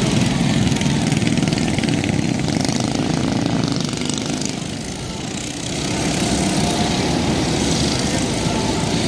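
Small mini bike engines running at racing speed. The sound dips about halfway through, then comes back up.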